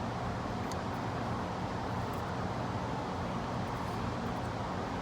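Steady low hum and hiss of background room noise, with two faint light ticks, one under a second in and one about two seconds in.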